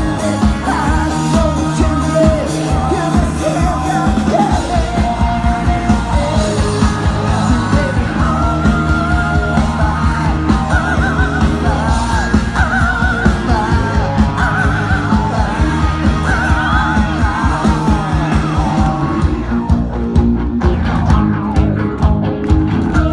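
Rock band playing live: a steady drum beat, bass and electric guitar, with a lead line that bends and wavers in pitch and some shouted singing.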